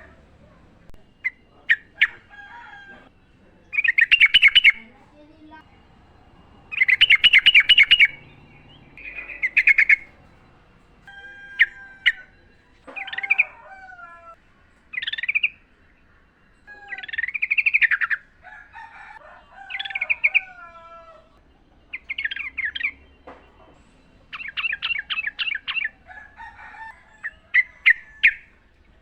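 Yellow-vented bulbul singing: a string of short, bubbly chattering phrases, each about a second long, with brief pauses between them and some lower whistled notes mixed in.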